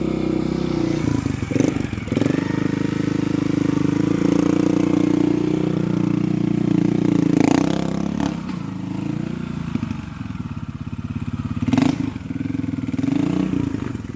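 Trials motorcycle engine running, blipped up and down in pitch as the throttle is worked, with a few sharp knocks and clatters from the bike.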